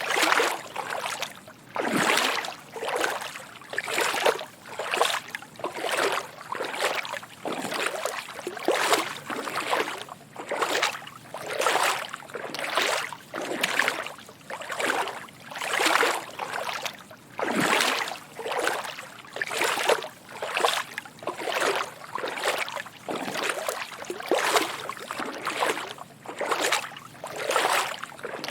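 Footsteps wading through shallow water, each step a soft slosh and splash, at an even pace of about one step a second.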